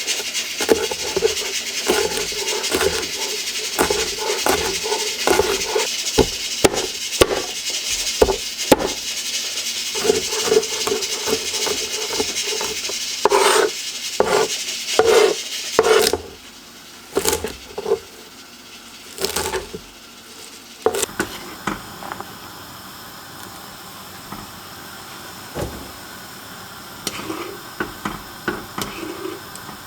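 Kitchen cooking sounds: utensils and dishes knocking and clinking irregularly over a steady hiss. About halfway through the hiss stops, leaving scattered clinks.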